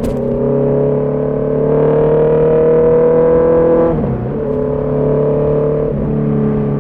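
Honda CB650R's inline-four engine and exhaust pulling under acceleration, rising in pitch for about four seconds. The pitch then drops sharply at an upshift and climbs again, with another brief dip near six seconds.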